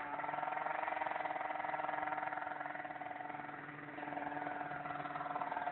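Mitsubishi Lancer Evolution II turbocharged four-cylinder idling steadily through an aftermarket Roost exhaust. It drops slightly in level about three seconds in and comes back up a second later.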